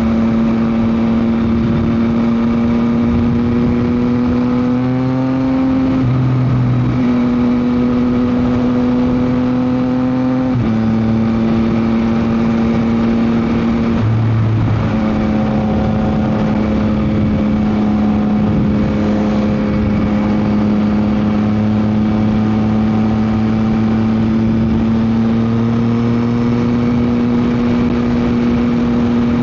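Yamaha MT-09 SP's inline-three engine through a Dominator GP exhaust, running steadily under way, its pitch stepping and gliding a few times. Wind noise runs underneath.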